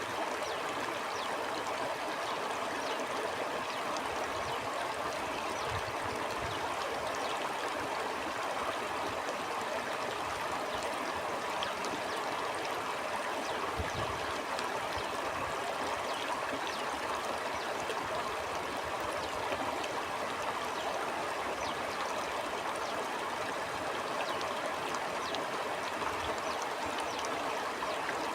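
A stream flowing steadily over stones, with a dense babble of small splashes and gurgles.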